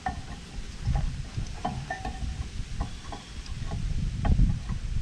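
Scattered metal clinks and knocks from tools and parts at the rear brake pads and caliper, over a low uneven rumble of wind on the microphone.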